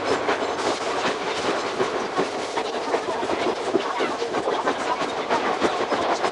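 Ex-Tokyu 1000 series electric train running along the track, its wheels giving a rapid, irregular clatter of clicks over the rails above a steady running noise.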